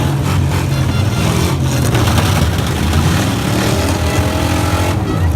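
A truck engine running loud, its pitch climbing as it revs up through the second half.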